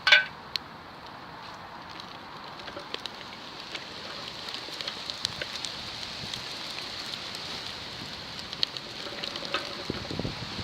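Wood campfire crackling as it catches, a steady hiss full of small pops that slowly grows louder. A single loud sharp crack at the very start.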